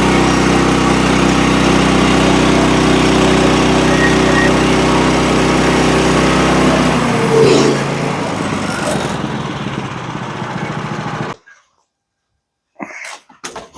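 Small gasoline engine on a Woodland Mills sawmill running steadily. About seven seconds in, its note changes and the low hum drops away. It cuts off abruptly a few seconds later.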